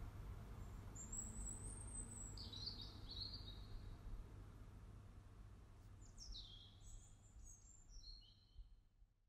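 Faint bird calls over a low steady rumble. A high call comes about a second in and a couple more follow, then near the end a quick run of short notes steps down in pitch before the sound fades out.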